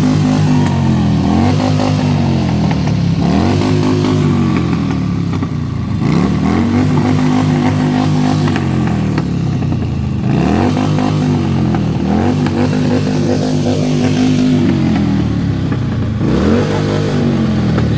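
Harley-Davidson V-twin motorcycle engine revved repeatedly while standing: its pitch rises, holds and drops back to idle over and over, some revs short blips and a few held for two or three seconds.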